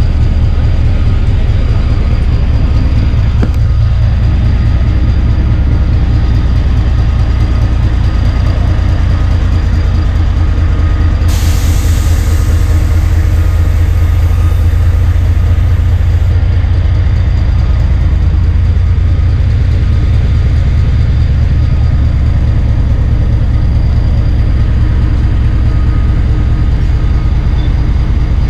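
Narrow gauge train running along the track, heard on board as a loud steady low rumble. A hiss joins in for about five seconds midway.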